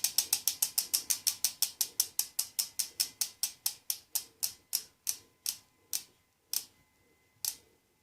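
Mavic Aksium Elite bicycle wheel's freehub clicking as the wheel coasts down. The sharp ticks start at about eight a second and slow steadily until the last one, near the end, as the wheel stops.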